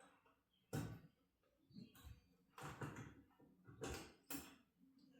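Several sharp knocks and clunks of metal garage door hardware being worked by hand, the loudest about a second in, with quiet in between.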